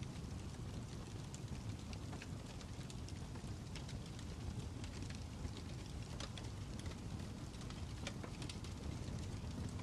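Fire crackling steadily: a low rumble of burning with frequent irregular sharp pops and snaps.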